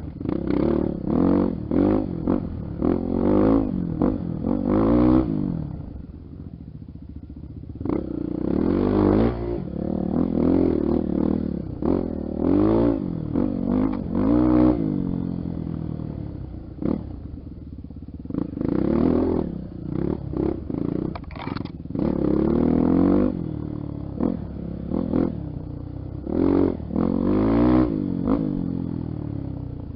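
Honda XR 250 Tornado trail bike's single-cylinder four-stroke engine being revved in repeated throttle bursts, its pitch rising and falling again and again, with two brief easings of the throttle along the way.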